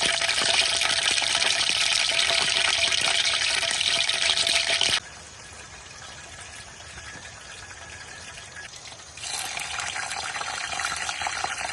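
Rushing water, a steady hiss. It cuts abruptly to a quieter water sound about five seconds in and comes back louder about four seconds later.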